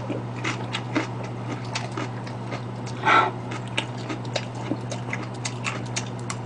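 Close-miked chewing of crunchy vegetables: a run of short, crisp, wet clicks and crunches. A brief louder sound comes about three seconds in, over a steady low hum.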